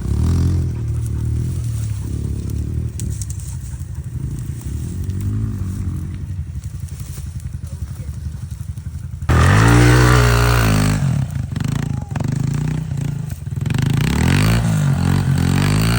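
Pit bike engine running and revving. It is lower and quieter for the first half, then gets suddenly louder about nine seconds in as the revs climb and fall, and climbs again near the end.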